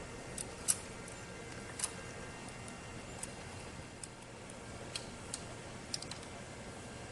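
Scattered small, sharp clicks and taps at irregular intervals, the loudest a bit under a second in, over a faint steady hum: small parts and tools being handled while the thread trimmer motor assembly of an industrial sewing machine is worked on.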